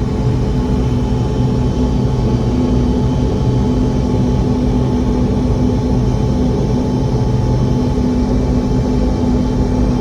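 Boeing 717's rear-mounted Rolls-Royce BR715 turbofan engines running, heard inside the rear of the cabin: a loud, steady roar with a low hum and several steady tones in it.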